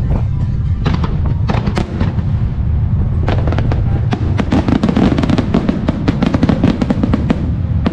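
Starmine fireworks barrage: shells bursting in quick succession, a few scattered bangs and then a dense run of rapid sharp cracks from about three seconds in until near the end. Music with deep bass plays throughout.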